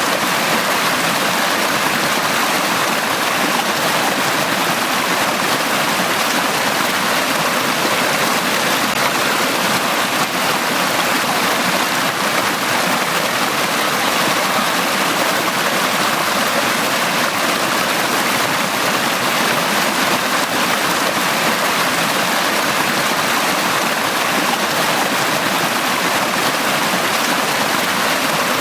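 Forest stream running steadily over rocks: a continuous, even rush of water.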